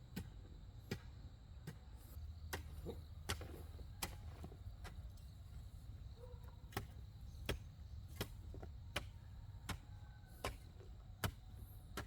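Steady chopping strokes of a hand tool, about one every three quarters of a second, with a short break midway.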